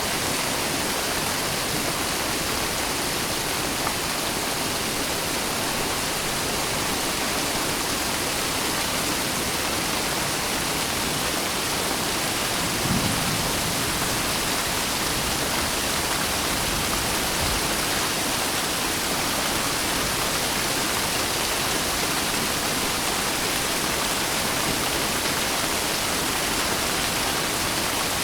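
Steady rain falling, an even hiss with no let-up. A brief low thump comes about halfway through.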